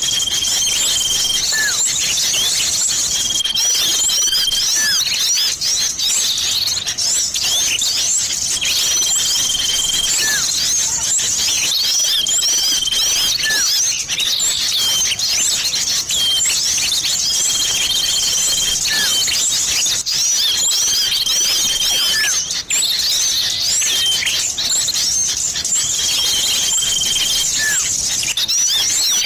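Bird-lure recording of many small songbirds chattering and chirping densely, which the title gives as a mix of sirtu and common iora (cipoh) calls. A flat, high whistle about a second long comes through seven times, with short falling notes between.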